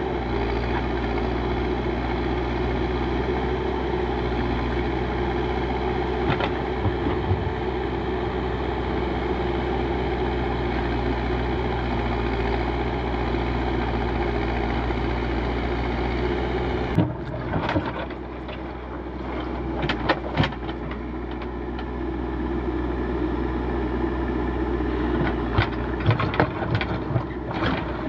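Backhoe loader's diesel engine running steadily. About two-thirds of the way through the engine note changes abruptly, and scattered sharp knocks come over it, at first in a short cluster and again near the end.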